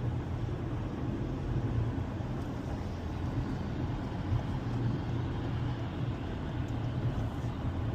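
Steady low rumble of a car being driven: engine and tyre noise, even throughout.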